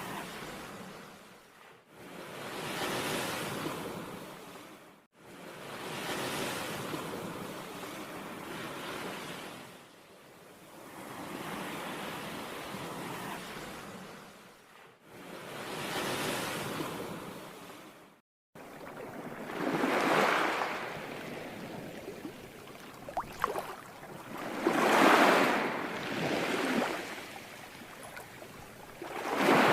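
Ocean waves washing in and breaking: each surge swells and fades every few seconds, and the sound cuts out abruptly several times. After about eighteen seconds the surges grow louder.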